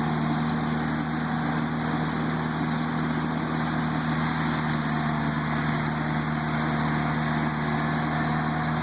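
ASV skid steer running steadily with its hydraulic mulcher head spinning, a constant engine and hydraulic drone without breaks.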